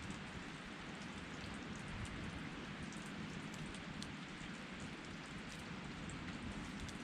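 Steady rush of flowing river water, with faint scattered crackles from a campfire.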